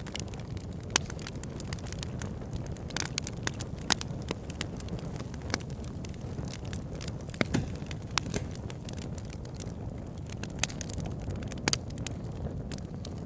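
Wood fire burning in a fireplace: a steady low rumble of flames with frequent sharp crackles and pops from the burning firewood, a few of them louder, about a second in, about four seconds in and near the middle.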